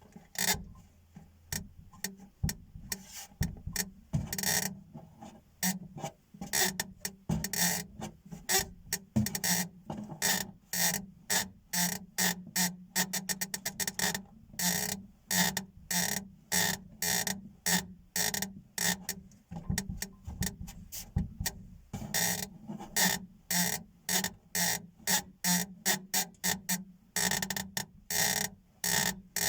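Repeated short creaks or clicks from a VAZ 2115's interior, about two to three a second in an uneven rhythm. It is the creak that first seemed to come from the right corner of the dashboard but has another cause.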